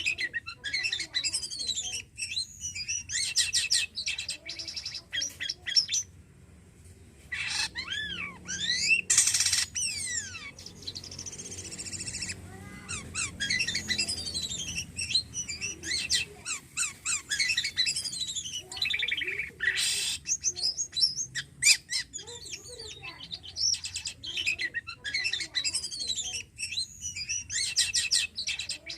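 A jalak kapas starling in full song: a long, varied run of rapid chattering, sweeping whistles and harsh squawky notes, with a brief pause about six seconds in.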